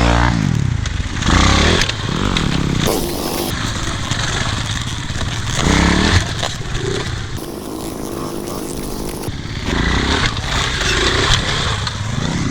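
Dirt bike's single-cylinder four-stroke engine revving up and down repeatedly as the bike is ridden over rough trail, its pitch rising in several surges and dropping back in between.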